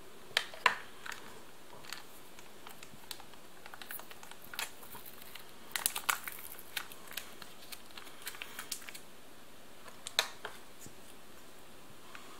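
Ration food packaging crinkling, with scattered light clicks and taps, as a cracker sandwich of luncheon meat and tomato sauce is put together by hand. The sharpest clicks come in clusters about six and ten seconds in.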